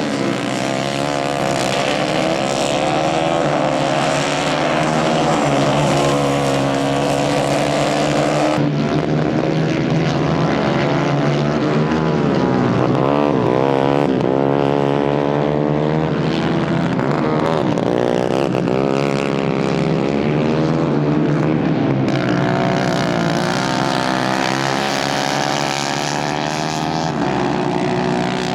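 Several 150cc racing kart engines running hard together, their pitches rising and falling as the karts accelerate, lift off and pass by, with the sweeps strongest in the middle.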